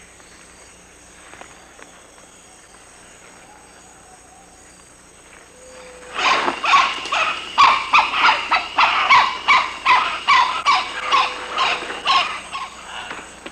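A wild animal in tropical rainforest calls in a rapid, loud series, about two or three calls a second, starting about six seconds in and fading near the end. Before the calls there is quiet forest ambience.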